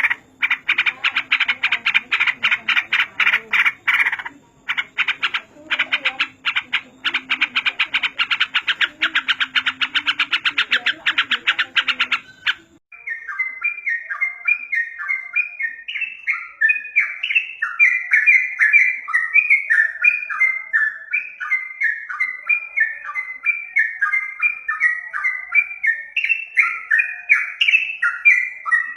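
Songbirds singing: first a very fast, harsh chattering song over a steady low hum. Then, after an abrupt cut about 13 seconds in, a different bird sings a rapid run of repeated falling whistled notes.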